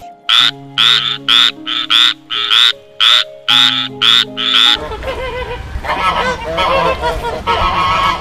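A frog croaking in a quick, even series of about a dozen loud rasping calls, roughly two a second, over sustained background music chords. About five seconds in this gives way to a flock of waterfowl calling together in a dense, continuous chatter.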